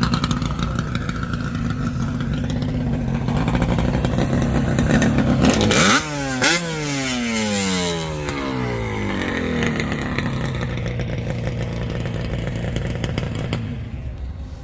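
Motorcycle engine running steadily, then revved sharply once about six seconds in, its pitch falling away over the next few seconds as the revs drop.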